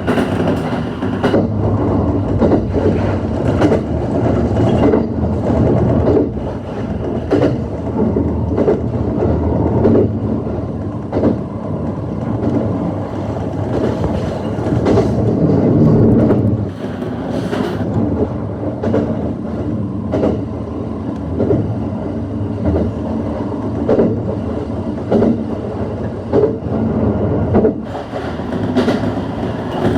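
ET127 series electric multiple unit running along the line, heard from inside the car: a steady rumble of wheels on rail with repeated clicks as the wheels pass over rail joints.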